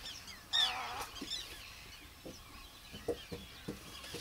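Birds calling: one loud call about half a second in, with high falling whistled notes over it, then scattered short calls and faint falling whistles.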